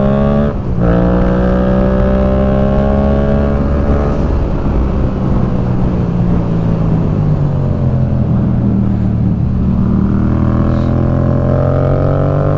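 Motorcycle engine under way, heard from the rider's own bike over wind noise. The engine rises in pitch, cuts for a moment at a gear change about half a second in, holds and slowly eases, then climbs again over the last few seconds.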